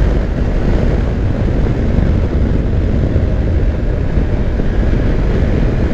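A Kawasaki Versys-X 300 motorcycle riding along at speed: a steady rush of wind and road noise, with the bike's engine running underneath.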